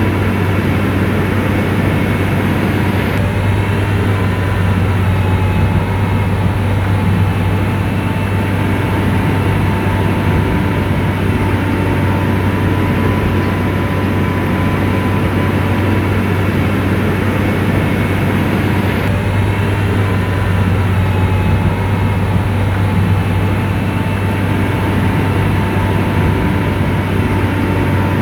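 Motor grader's diesel engine running steadily at working speed, with a deep hum and a faint steady whine above it.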